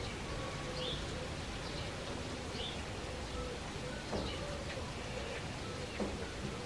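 A small bird chirping now and then, short high notes a couple of seconds apart, over a steady background hiss.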